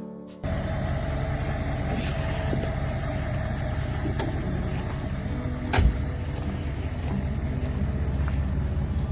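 Car engine running steadily, cutting in suddenly after music, with one sharp click a little under six seconds in.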